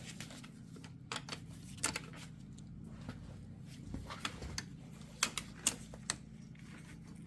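Scattered light clicks and taps as a wrench and the axle's universal-joint parts are handled while a bearing cap is twisted off, over a steady low hum.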